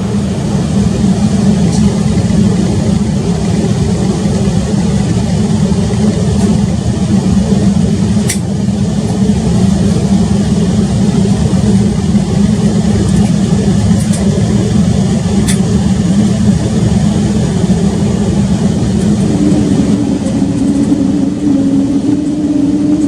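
Inside the cabin of an Embraer 195-E2, its Pratt & Whitney PW1900G geared turbofans suddenly come up to takeoff thrust, with a loud steady rumble of the takeoff roll. A few short ticks come through, and about 19 seconds in a steady low hum joins the roar.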